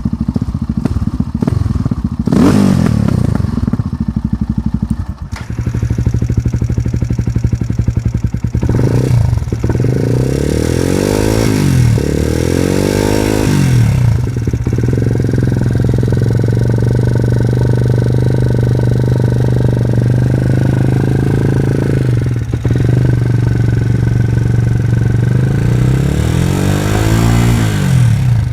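Motorcycle engine and exhaust idling, blipped several times so the pitch rises and falls back. The first few seconds have a rattlier, uneven sound, and there is another rev near the end.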